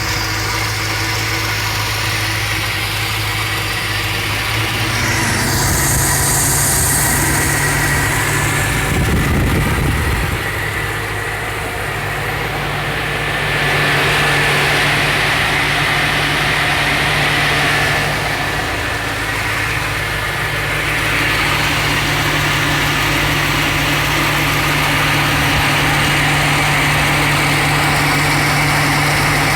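1978 Ford LTD Landau's V8 engine idling steadily, with its tone shifting a few times and a brief deeper rumble about nine seconds in.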